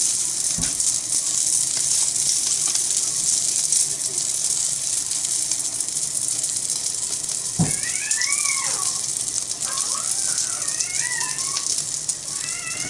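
Okonomiyaki frying on a thick iron griddle over a wood fire: steady sizzling and crackling as spattering oil flares up into sparks in the flames. There are two soft thumps, one just after the start and one about eight seconds in.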